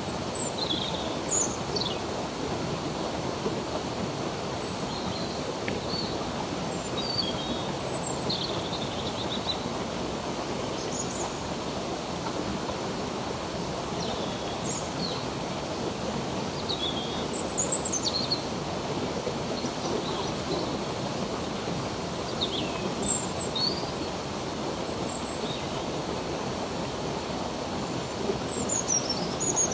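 Steady rush of a flowing stream, with birds chirping throughout in short, quick high notes and sweeps, a few clustering near the end.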